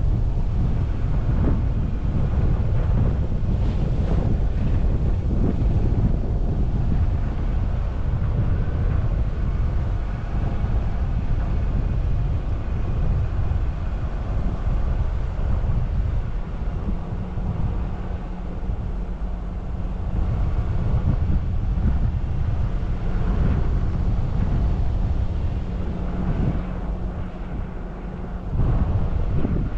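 Jeep Wrangler Rubicon driving along a snowy trail: a steady low rumble of engine and tyres with wind buffeting the microphone. A steady low hum of the engine comes through for a stretch about halfway in, and it eases briefly near the end.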